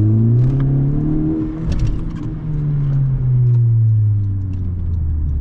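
Turbocharged Honda Civic Si four-cylinder engine pulling hard under full throttle in second gear. The revs climb for about a second and a half, then drop sharply with a brief hiss near two seconds in. After that the engine note settles and falls away slowly as the pull ends.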